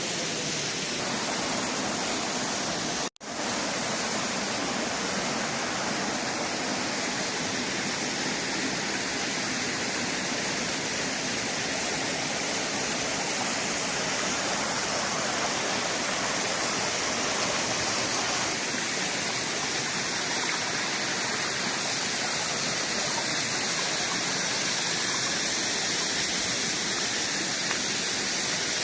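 Waterfall rushing steadily, with a momentary break in the sound about three seconds in.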